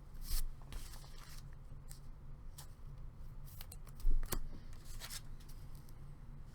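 Trading cards and their packaging being handled: a string of short rustles and slides, with one louder knock about four seconds in.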